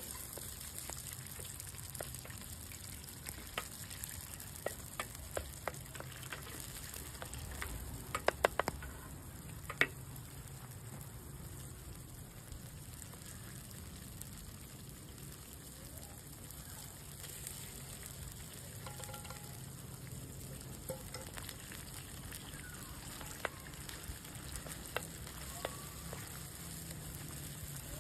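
Food sizzling in a pan over a campfire while it is stirred, with sharp clicks of the utensil against the pan, a quick cluster of them about a third of the way in.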